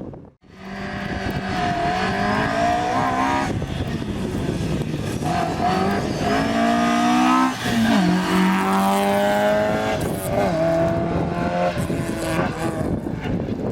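Rally car engine at full throttle, its pitch climbing and breaking off at each upshift, several times over. About halfway through, the pitch drops sharply as the car passes.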